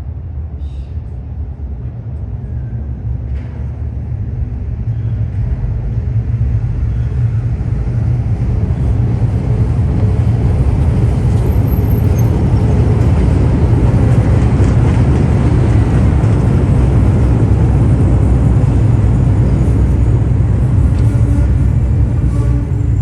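A vehicle's low rumble, growing louder over the first eight seconds or so and then holding steady.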